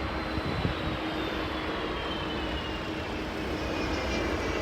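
Jet airliner landing: a steady rush of engine noise with a thin high whine that falls slowly in pitch, growing a little louder near the end.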